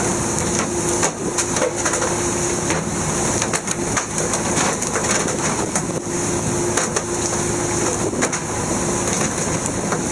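Fishing boat underway: a steady mechanical hum and rushing noise, broken by irregular sharp clicks and knocks.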